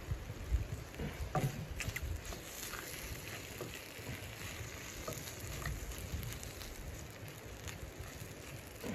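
Chicken pieces sizzling in a frying pan, with crackling spatters throughout and a wooden spatula scraping the pan as it turns them.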